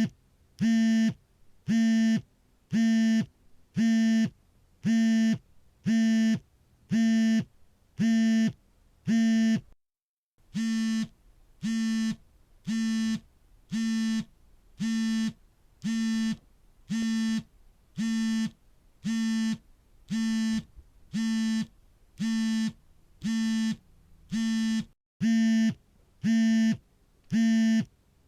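Smartphone vibrating on an incoming call: a buzz of about half a second, repeating about once a second at a steady pitch. The pattern breaks off briefly twice.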